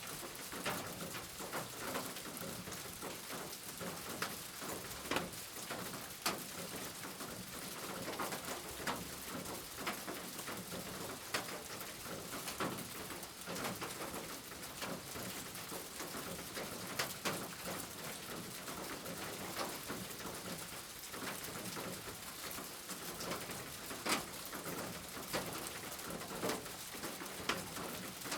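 Steady rain with frequent sharp drips striking close by. A bird's low calls are mixed in.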